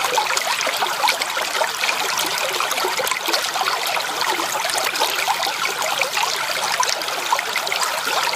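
Shallow creek water trickling and babbling steadily over stones, a dense patter of small splashes.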